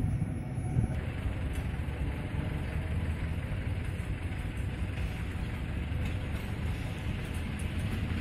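Steady low rumble of an approaching PKP ET22 electric freight locomotive hauling covered wagons, still some way off. In the first second, the rumble of a departing passenger train's last coach.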